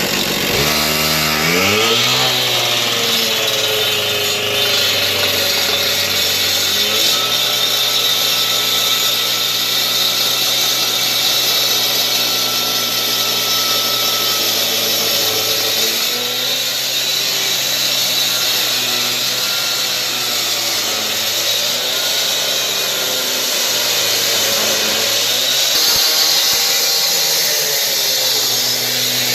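Power saw cutting into a concrete floor: the motor speeds up about a second in, then runs steadily under load, with small changes in pitch as the cut goes on.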